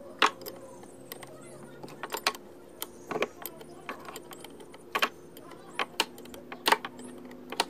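Irregular sharp metallic clicks and clinks of a spanner and metal parts being handled while a power sprayer's pump is taken apart, over a faint steady hum.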